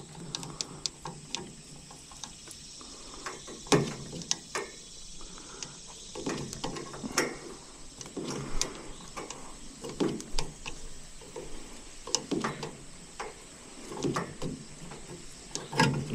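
Irregular knocks, clicks and brief scrapes of hand work on metal HVAC parts and tools, with no steady machine sound.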